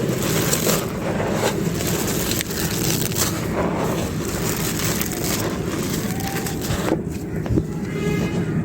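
Dry clay pot pieces crunching and crumbling as they are crushed: a dense run of small crackles and grinding.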